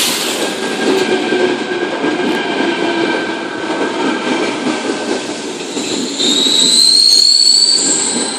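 Sydney Trains Tangara electric train rolling slowly into the platform, making a steady rumble with a steady whine. About six seconds in, a high squeal rises over it as it brakes, then fades near the end.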